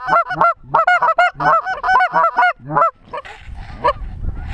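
Goose calling: a rapid, loud run of short honks and clucks, about four to five a second, that breaks off about three seconds in. After it only wind buffeting the microphone remains.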